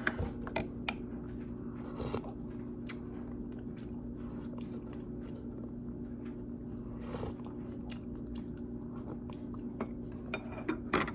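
Microwave oven running with a steady low hum while it heats water, with scattered small clicks and taps over it.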